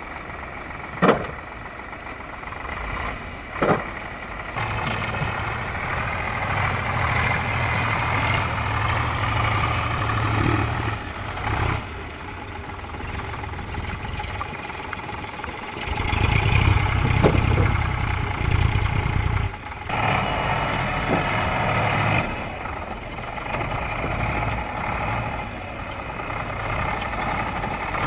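Heavy vehicle engine running, its level rising and falling as it works, loudest for a few seconds a little past the middle. Two short sharp knocks come in the first few seconds.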